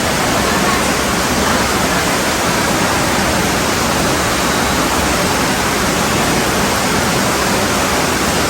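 Heavy rain falling in a steady, loud, even hiss.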